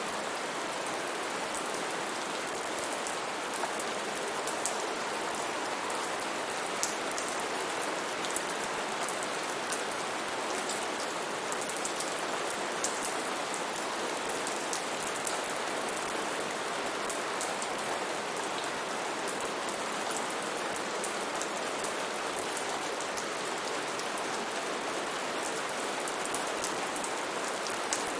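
Steady heavy rain falling on foliage and ground, an even hiss with scattered close drop ticks.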